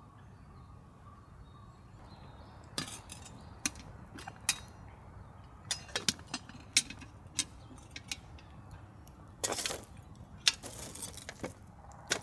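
A series of sharp, irregular clicks, knocks and clinks, roughly a dozen, spread over the last nine seconds, with a brief scraping rustle a little before ten seconds in.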